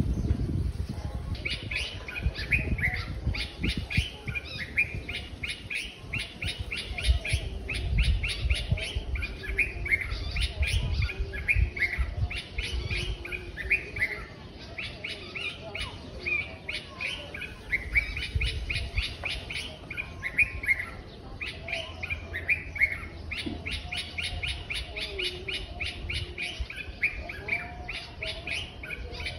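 Small birds chirping in quick runs of short high notes, one series after another and sometimes overlapping. A low rumble comes and goes underneath.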